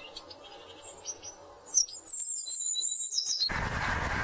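Small songbird calls: a few faint high chirps, then a thin, high whistled note held for over a second. Near the end a louder steady hiss comes in.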